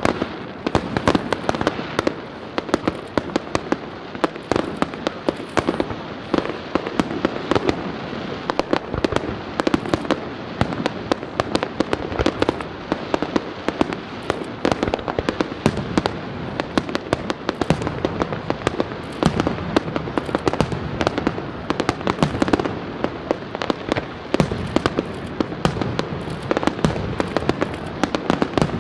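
Aerial fireworks shells bursting in a rapid, continuous string of sharp bangs, several a second, over a constant din of further bursts.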